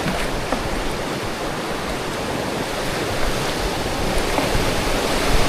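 Rushing river water, a steady noise that slowly grows louder.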